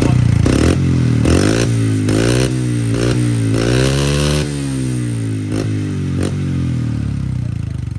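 Pit bike engine running and being revved in several quick blips, its pitch rising and falling, then settling into a steadier run, warming its freshly added oil.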